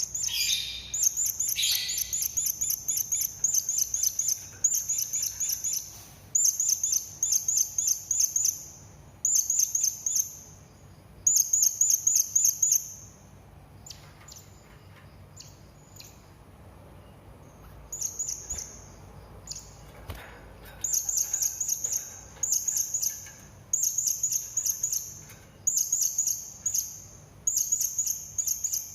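Serindit hanging parrots calling: rapid strings of thin, high-pitched chirps in bursts of one to two seconds, repeated over and over, with a pause of a few seconds about halfway through.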